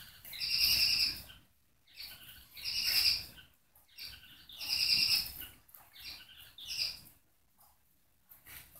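Capybara chewing watermelon: wet, crunchy chewing in four bursts about two seconds apart.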